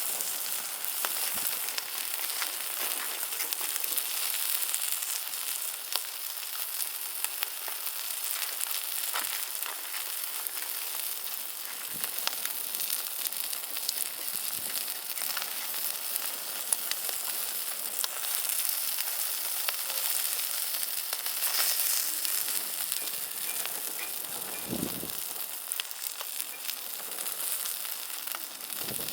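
Food sizzling steadily on a grill over a wood fire, with scattered crackles and pops from the fat and burning firewood.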